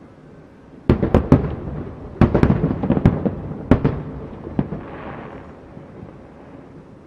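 Aerial fireworks bursting: a quick run of sharp bangs starting about a second in, a second cluster around two seconds later, then single bangs, each echoing away, with a brief hiss near the middle.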